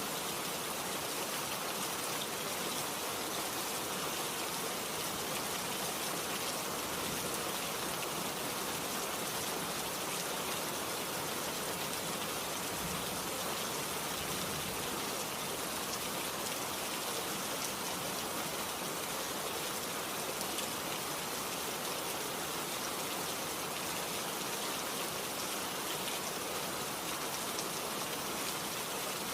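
Steady rainfall: an even, unbroken hiss of many drops falling, holding the same level throughout.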